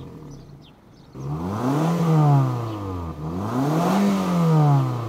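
A 2012 Mazda 3's 105-hp petrol four-cylinder engine idling, then revved twice, each rev rising and falling over about two seconds. Its exhaust carries only a cosmetic aftermarket tip, which gives just a very slight growl.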